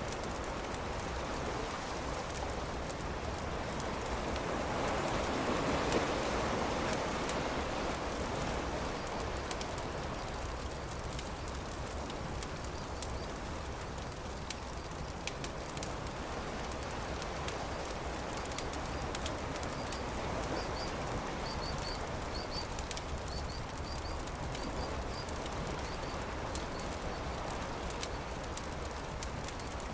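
Campfire crackling with scattered sharp pops over a steady wash of surf, which swells louder about six seconds in. Faint short high chirps, like a small bird, come near the end.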